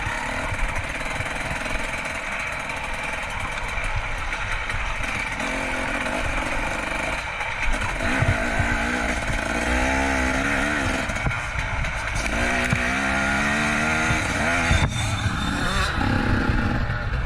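Dirt bike engine under hard riding, revving up and down through the throttle, its pitch rising and falling again and again in the second half.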